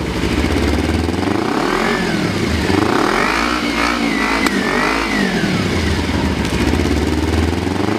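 Kawasaki Ninja parallel-twin engine revved hard through an aftermarket exhaust, climbing and falling back about three times between blips.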